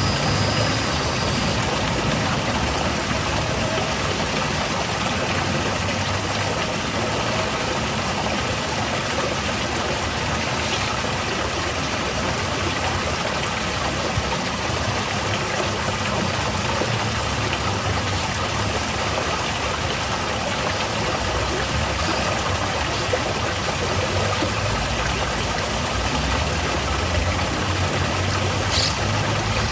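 Garden waterfall: water falling steadily and splashing into a pool, an even rushing noise with a low rumble underneath.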